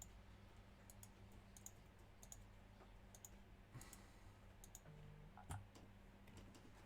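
Faint, irregular clicks from a computer being worked, roughly one every half second to a second, over a steady low hum; otherwise near silence.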